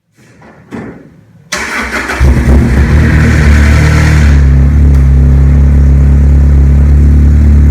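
2007 Lotus Exige S's four-cylinder engine cold-starting: it fires about a second and a half in, flares up for a few seconds, then settles into a steady fast idle.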